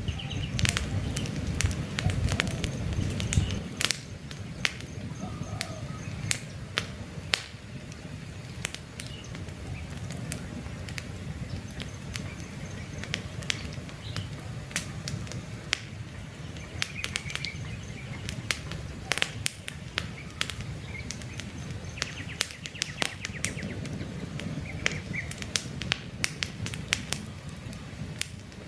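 Wood campfire crackling, with frequent sharp pops and snaps over a low rumble of flame that is louder in the first few seconds. Occasional short bird chirps in the background.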